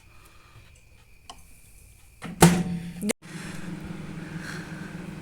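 A few light clicks, then a short loud burst about two and a half seconds in; after an abrupt cut, a microwave oven runs with a steady low hum.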